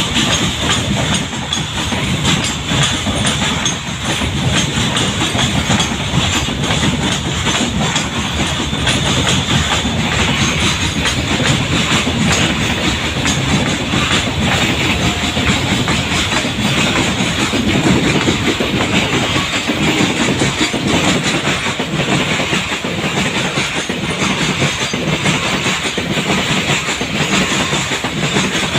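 Freight train's wagons rolling past close by, a steady loud rumble with wheels clattering over the rail joints.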